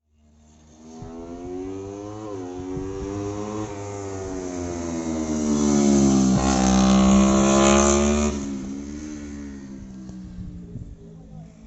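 Motorcycle engine revving hard on track: the pitch climbs, dips briefly about two seconds in, then climbs again. It is loudest about six to eight seconds in, falls off sharply and fades as the bike moves away.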